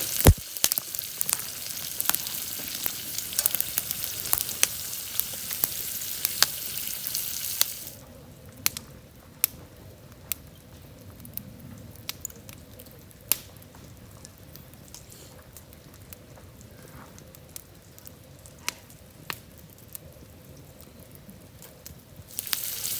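Food sizzling in hot oil, spitting with many sharp little pops. About eight seconds in the sizzle drops abruptly to a quieter hiss with scattered pops, and the loud sizzle returns near the end.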